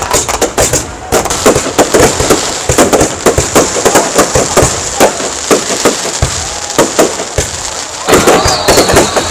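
Aerial fireworks display: shells bursting overhead in a rapid, dense run of loud bangs and crackles.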